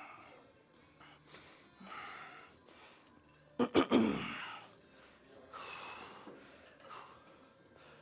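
A man breathing hard and puffing out a forced exhale every couple of seconds while straining through heavy hack squat reps. A much louder, sudden burst comes about three and a half seconds in.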